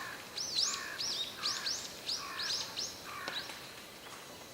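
A bird chirping in a quick series of short rising-and-falling notes, about two or three a second, fading out about three and a half seconds in.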